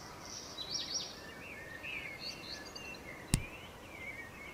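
Outdoor ambience with small birds chirping now and then, and a single sharp knock about three seconds in.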